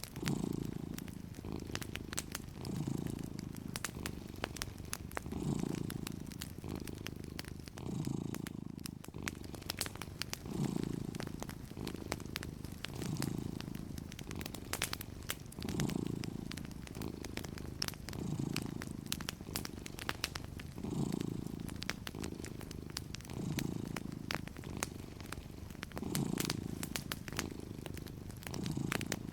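Domestic cat purring, the purr swelling and easing in a slow rhythm about every two and a half seconds with its breathing, over scattered small crackles and pops from a wood fire.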